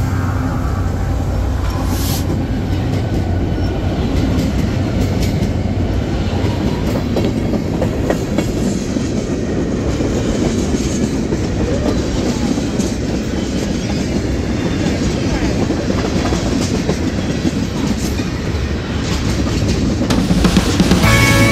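Freight train passing close at speed. The diesel locomotives' engine drone fades in the first moments, then the cars follow with a steady rumble and clickety-clack of wheels on the rails.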